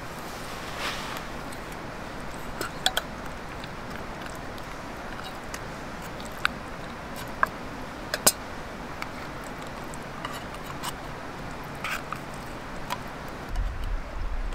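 Small wood fire burning: a steady low hiss with scattered sharp pops and crackles from the burning wood, the loudest about eight seconds in.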